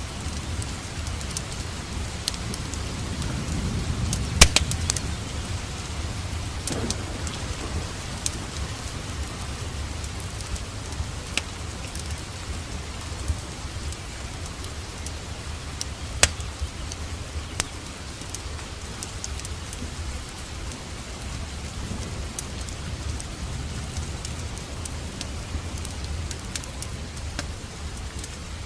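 Steady rain together with a crackling fireplace fire: sharp pops and snaps scattered irregularly through, the loudest about four seconds in and again about sixteen seconds in, over a low rumble that swells around three to five seconds in.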